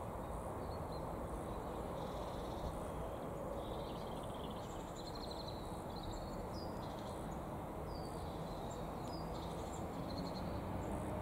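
Small birds chirping on and off in short, high calls over steady low background noise.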